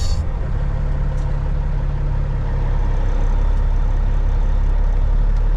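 Cat 3406E inline-six diesel of a Freightliner FLD120 semi running low and steady, heard from inside the cab, a little louder from about halfway. A brief hiss right at the start.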